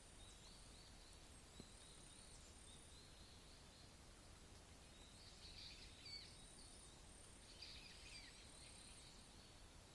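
Faint wild songbirds singing: short high notes repeated steadily, with busier twittering bursts about halfway through and again around eight seconds in, over a light outdoor hiss.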